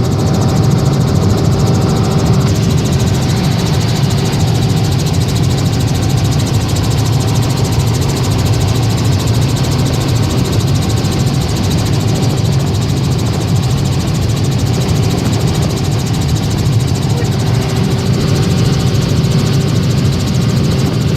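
Helicopter in flight: a loud, unbroken drone of engine and rotor, deepest at the bottom, with a faint steady whine above it.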